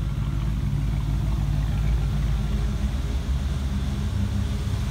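Ford Mustang 5.0 V8 (Fox body) idling steadily, heard from behind near the exhaust. It holds an even idle now that the failed capacitors in its ECU have been replaced.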